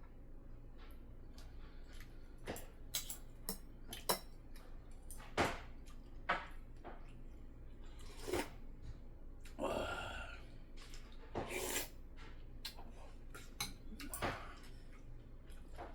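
Eating utensils clicking and clinking against bowls and dishes at irregular intervals, with a longer noisy sound about ten seconds in.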